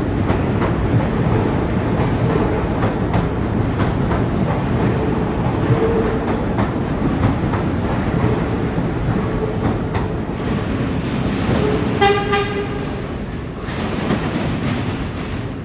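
New York City subway train running on the tracks, a steady rumble with frequent clacks of the wheels over rail joints. About twelve seconds in it gives a brief horn toot, and the sound then fades.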